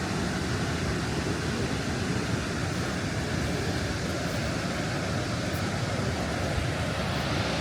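Steady rush of a large waterfall on the Krka River: an even, unbroken wash of falling water.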